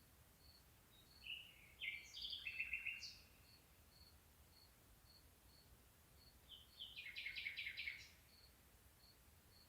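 A songbird singing two short, varied phrases, each ending in a rapid trill, about a second in and again about six seconds in. Behind them a faint, short high-pitched peep repeats steadily about twice a second.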